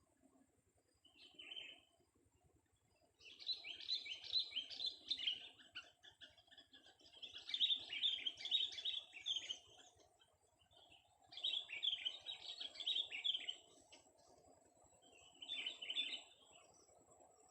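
Young sooty-headed bulbul singing: a short call, then four phrases of rapid, chattering notes, each lasting one to three seconds with pauses between.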